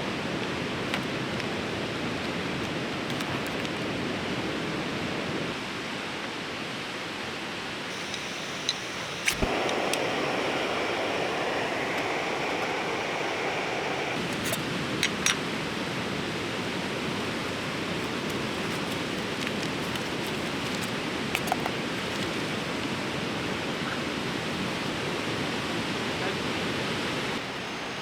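A fast-flowing river rushing steadily, with a few short sharp clicks over it, the clearest about nine seconds in.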